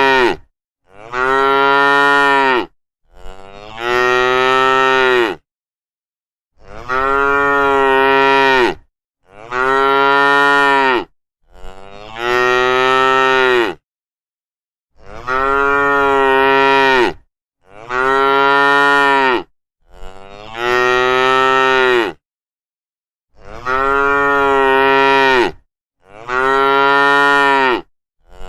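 Cattle mooing: a string of long moos of about two seconds each, coming in runs of three with short breaks between.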